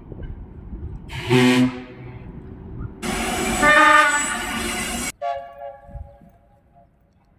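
Locomotive air horns (tifons) sounding: a short blast about a second in, then a louder two-second blast that cuts off abruptly, followed by a fainter horn tone that fades out near the end.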